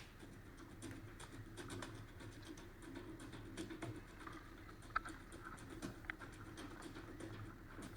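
Water pattering and clicking faintly around a kayak as it is paddled, in small irregular drips and splashes, with one sharper click about five seconds in.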